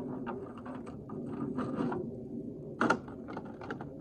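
Chainsaw bar and chain being handled as the bar is taken off the saw to be flipped over: a string of small clicks and rattles, with one sharper clack about three seconds in.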